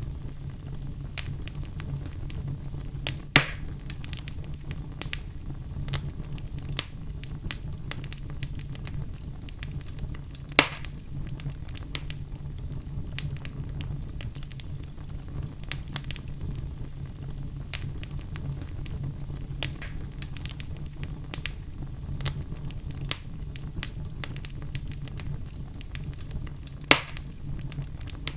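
Wood logs burning in a fireplace: a steady low rumble of flames with frequent small crackles, and three louder pops about 3 s, 10 s and 27 s in.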